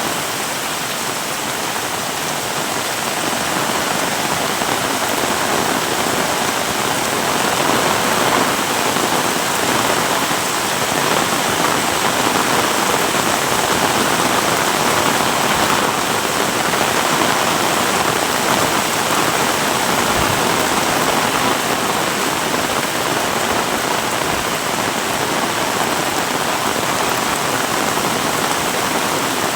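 Heavy rain pouring steadily: a dense, even hiss of rain hitting surfaces, slightly heavier after a few seconds.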